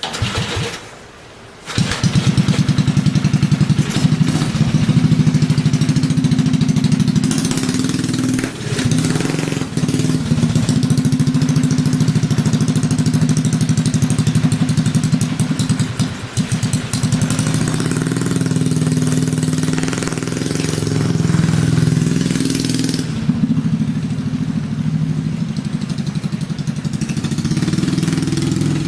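Small mini bike engine starting: a short burst, a pause, then it catches about two seconds in and runs loudly, its speed rising and falling several times as the throttle is worked.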